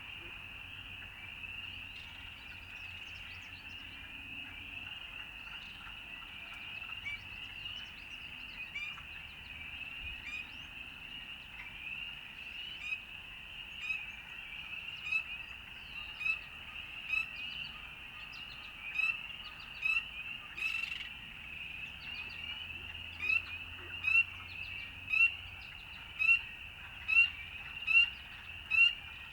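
A steady, dense chorus of high calls, likely frogs, with one nearer caller giving short rising chirps about once a second that grow louder in the second half. A brief rustle comes near the middle.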